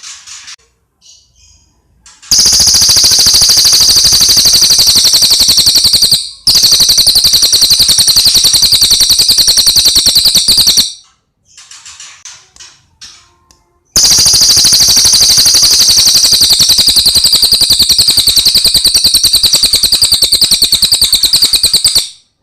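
A cililin bird singing long, very loud, high-pitched rapid trills, the kind of song used to train cage songbirds to copy. It gives three trills: a short break comes after the first, and a longer pause with faint chirps comes after the second.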